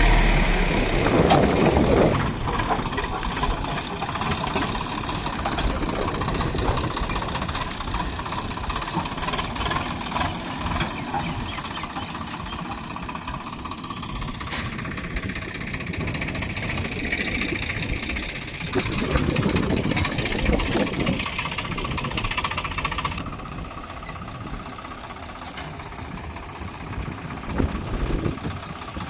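Diesel engine of heavy earthmoving machinery running continuously, its level rising and falling as the load changes, and dropping somewhat near the end.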